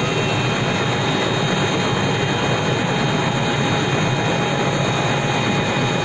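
Helicopter running at steady power: a constant loud drone with several high steady whines over it, unchanging throughout.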